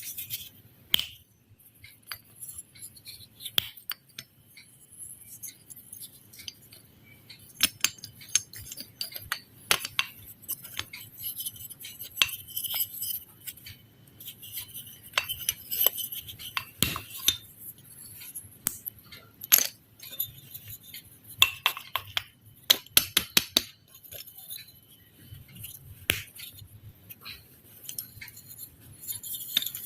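Irregular light taps, clicks and clinks of hard objects, several a second at times, with a faint high crackle between them.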